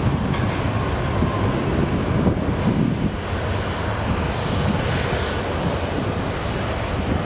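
Airliner jet engines running, a steady loud rumble with a faint whine on top.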